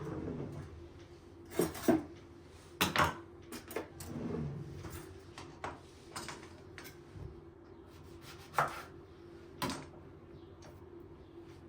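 Kitchen work: scattered knocks and clinks of utensils and dishes on a counter, with the sharpest knocks about two and three seconds in and two more near the end, over a steady faint hum.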